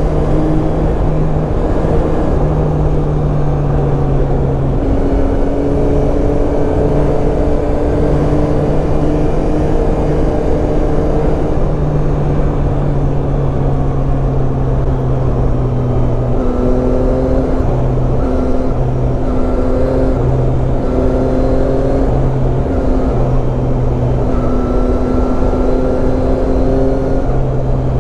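Yamaha Tracer 9's inline three-cylinder engine running under way, its pitch easing and rising slightly with the throttle, over a steady rush of wind and road noise.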